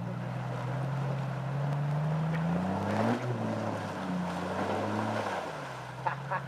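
Jeep Cherokee engine revving under load as it wades through a river and climbs out up the far bank, with water rushing and splashing around it. The engine pitch rises to a peak about three seconds in, drops, rises briefly again, then settles back.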